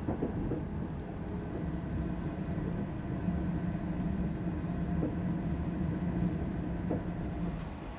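Indian Pacific passenger train running at speed, heard from inside a sleeper cabin: a steady low rumble with a faint hum and no distinct wheel clicks.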